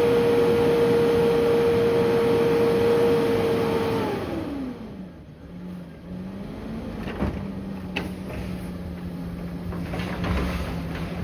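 Peterbilt 520 garbage truck engine held steady at high revs, then falling back to idle about four seconds in, with a few light knocks while it idles.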